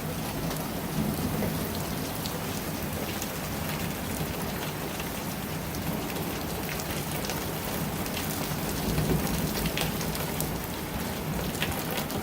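Heavy wind-driven rain pouring in a severe thunderstorm: a steady hiss with scattered sharp ticks of drops striking close by.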